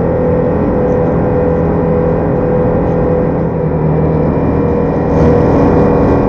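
Ducati Diavel motorcycle engine running steadily under way, getting louder as the throttle opens a little near the end.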